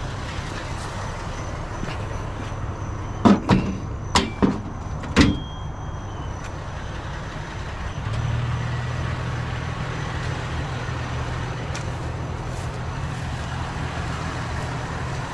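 A vehicle engine running with a steady low rumble that grows louder about eight seconds in. Between about three and five seconds in there are several sharp clanks of scrap metal being handled, the last ringing briefly.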